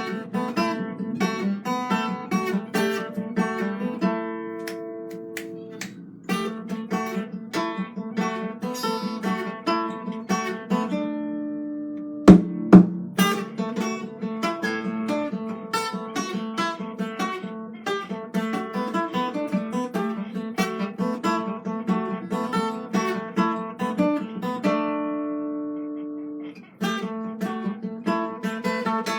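Acoustic guitar played fingerstyle, picked notes and chords with two held chords left to ring and fade. About twelve seconds in, two sharp knocks half a second apart are the loudest sounds.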